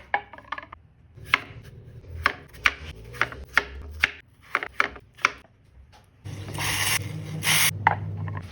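Kitchen food-preparation sounds: a run of about ten sharp knocks of a utensil on a bowl or board. About six seconds in, a louder rough rushing noise with a low hum starts and lasts about two seconds.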